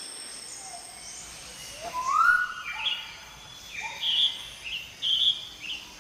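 Tropical rainforest sounds: a steady high-pitched insect drone, joined from about two seconds in by a series of loud whistled animal calls that slide up and down in pitch and repeat several times.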